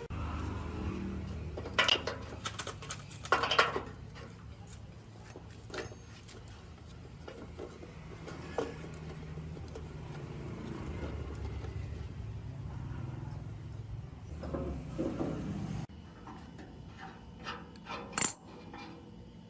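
Metal parts clinking and knocking over a low steady hum; the hum cuts off sharply about sixteen seconds in, and a sharp metallic clink comes near the end.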